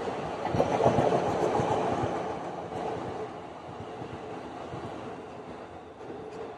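Electric commuter train running along the tracks below, its wheels clattering on the rails. The sound is loudest about a second in and then gradually fades.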